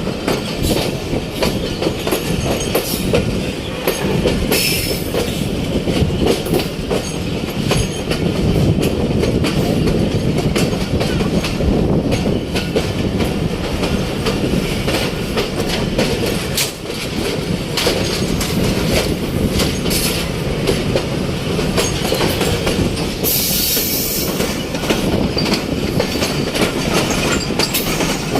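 Pakistan Express passenger train running at speed, heard from aboard: a steady rumble of the coaches with wheels clattering over rail joints, and brief sharper hissing spells a few seconds in and again near the end.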